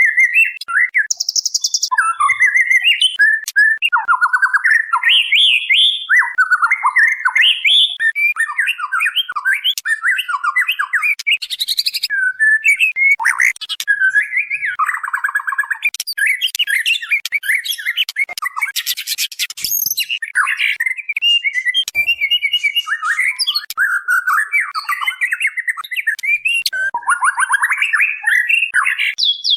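Female white-rumped shama calling a male in a near-continuous run of short, fast chattering and trilled phrases. This is the kind of female call used as a lure to draw a male murai batu into answering.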